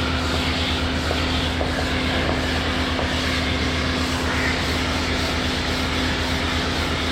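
Power sander running with a steady motor hum, its pad rubbing over a body-filler repair on a van panel.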